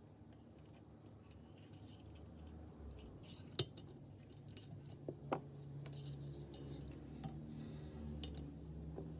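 Small metal hand tools clicking and tapping lightly against a phone's parts during a repair, with a few sharper clicks about three and a half and five seconds in, over a low steady hum.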